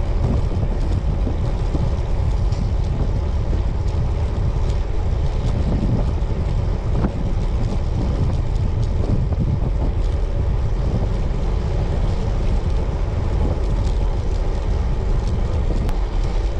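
Steady wind noise buffeting the microphone while riding a road bicycle.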